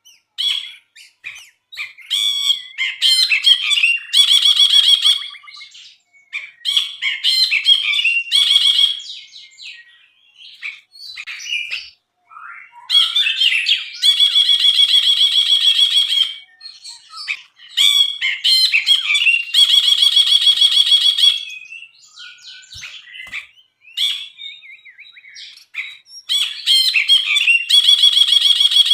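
Brinji (bulbul) singing vigorously: repeated phrases of fast, buzzy trills around a high steady note, each lasting one to three seconds, with short chirps in the gaps between them.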